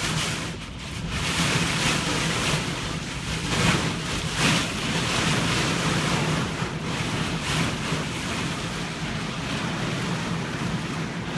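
Rushing storm noise with wind buffeting the microphone, swelling and easing in gusts over a steady low hum.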